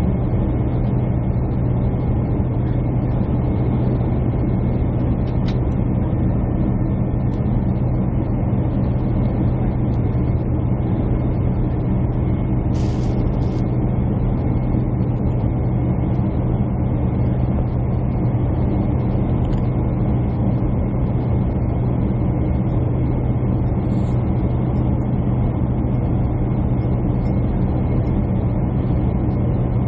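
Steady drone inside an airliner cabin: jet engine and airflow noise, unchanging throughout, with one brief click about thirteen seconds in.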